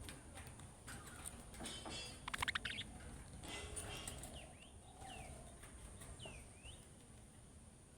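Budgerigars chattering: a burst of harsh, rapid chatter about two seconds in, followed by several short chirps that dip and rise in pitch.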